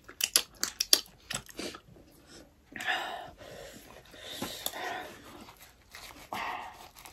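Close-miked eating of crisp fried sel roti: a quick run of crunchy chewing and biting clicks in the first two seconds. Then come three breathy sniffs and puffs of air through the nose and mouth, a reaction to chilli heat.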